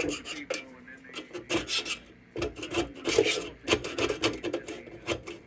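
Hand scraping on the sheet metal of an old tin lantern: short, irregular rasping strokes, several a second, working off leftover chunks of old paint and rust.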